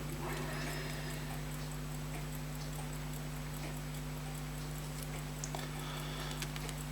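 Steady low electrical hum with faint, evenly spaced ticking, and a couple of small clicks of handling about five and six and a half seconds in.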